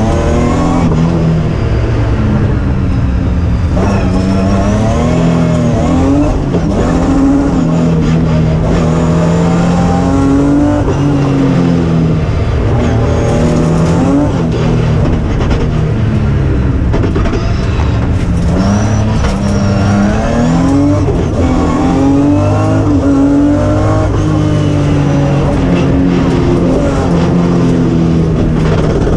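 BMW rally car's engine heard from inside the cabin at full attack, revving up and dropping back over and over as the driver shifts between second and third gear.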